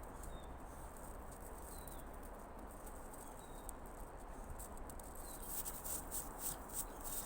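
Footsteps on an outdoor path, a rapid run of short crunching steps that grows louder over the last couple of seconds. Over them come a few faint, short bird chirps every second or two.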